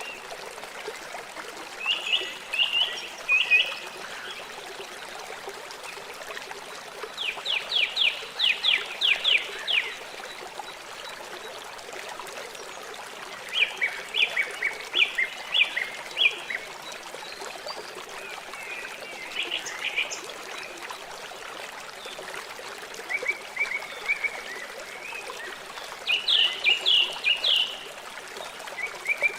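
River water flowing steadily. Over it, a bird calls in short bouts of rapid, high notes, about seven bouts a few seconds apart.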